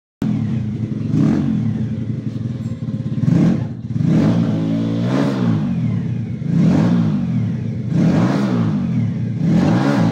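An engine revving up and down over and over, about six rises and falls in pitch roughly a second and a half apart.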